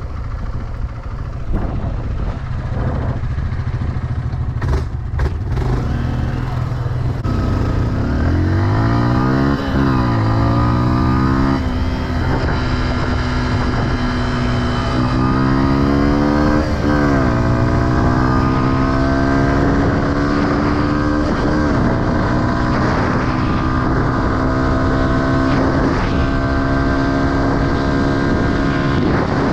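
Dirt bike engine, heard from on the bike with wind noise, running low at first. It then accelerates hard, its pitch climbing and dropping back twice as it shifts up through the gears, and holds a steady, slowly rising note at speed.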